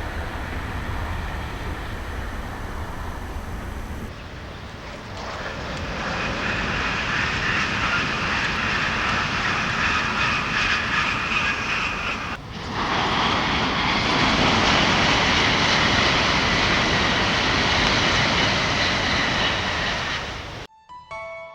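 300 series Shinkansen train running past at speed: a loud, steady rushing roar with faint whistling tones. It grows louder about five seconds in, dips briefly about twelve seconds in, and cuts off near the end, where piano music begins.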